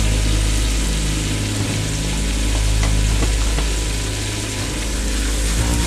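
Sliced garlic sizzling steadily in hot coconut oil in a cast-iron skillet as it sautés, over a low steady hum, with a few faint ticks.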